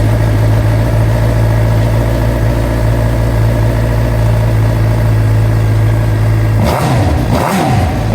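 2013 Suzuki GSX-R750's inline-four engine, breathing through a Yoshimura slip-on exhaust, idling steadily just after starting. Near the end it gets a couple of quick throttle blips, the revs rising and falling.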